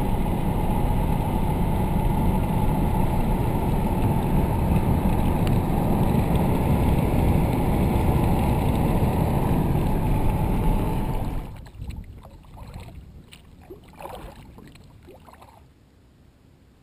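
Wind buffeting the microphone, a loud rushing noise that drops away suddenly about eleven seconds in, leaving a few faint short sounds.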